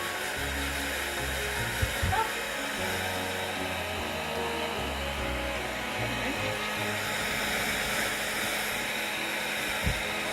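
A steady rushing noise runs under background music, with a few short knocks about two seconds in and again near the end.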